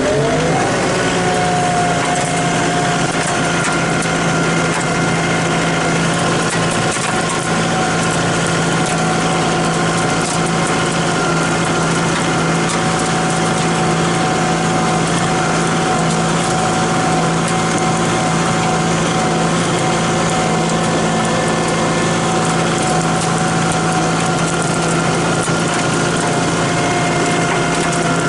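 Small vehicle engine driving along, speeding up in the first second and then running at a steady pitch.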